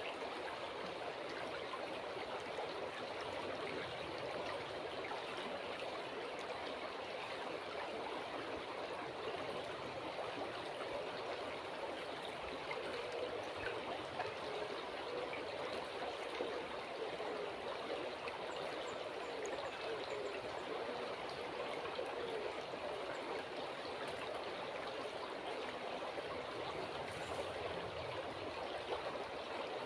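River water flowing steadily: an even, unbroken rush of water.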